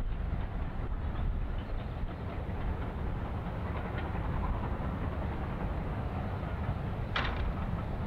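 A train rolling past out of view, a steady low rumble, with one short sharp clank about seven seconds in.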